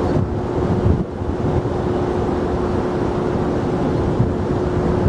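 Steady low rumble of jet airliner engine noise mixed with wind buffeting the microphone, with a constant hum running underneath.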